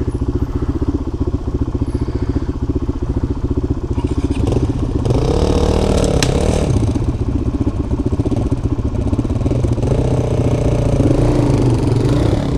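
Single-cylinder dirt bike engine running on a trail ride, the throttle opened twice so the revs rise and fall, once about five seconds in and again near ten seconds.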